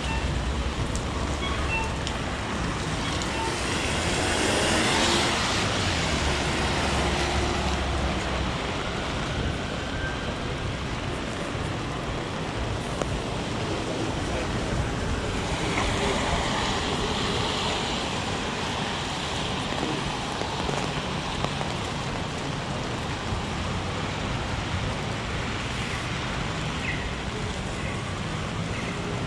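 Heavy rain falling steadily on a city street, with traffic hissing past on the wet road; two passing vehicles swell up about five seconds in and again past the middle.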